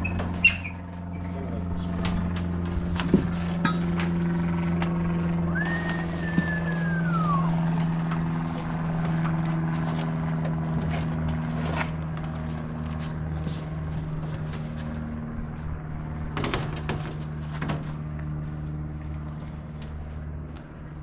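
Engine idling steadily, with a few clicks and knocks over it and a short falling whistle-like tone near the middle.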